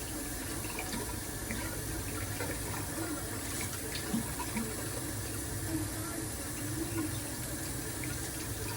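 Water running steadily from a kitchen tap, with a few light clicks and knocks.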